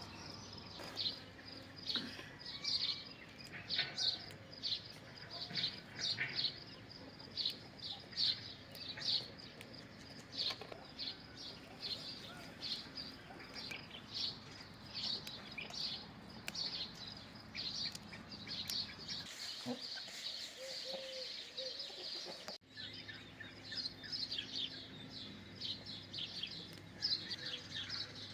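Small birds chirping: many short, high chirps repeating over and over.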